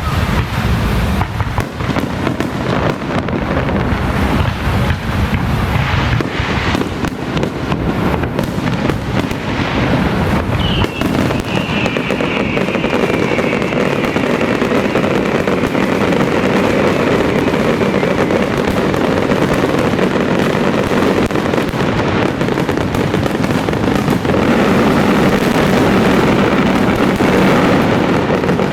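Fireworks and firecrackers going off in a dense, continuous crackle. About a third of the way in, a high whistle starts and falls slowly in pitch over several seconds.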